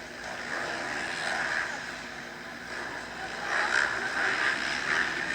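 Motocross bike engine passing close by, growing louder a little past halfway through.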